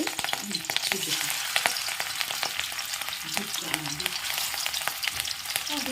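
Marinated fish pieces frying in a large kadai: a steady sizzle dense with sharp crackles and spits.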